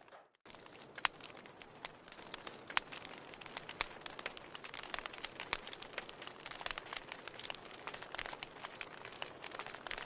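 Fireplace fire crackling, with dense irregular snaps and pops over a soft hiss. The sound drops out briefly at the very start.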